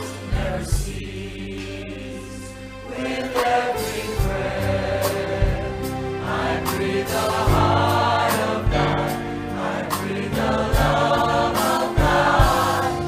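Church choir singing a gospel-style song with instrumental accompaniment and a regular low beat underneath.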